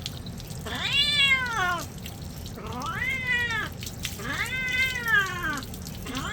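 Domestic cat meowing three times, long drawn-out meows that rise and then fall in pitch: the protest of a cat that dislikes being bathed.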